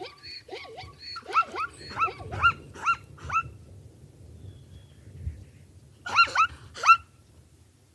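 Dog barking in short, high yaps: a quick run of about eight over the first three seconds, a pause, then three more near the end.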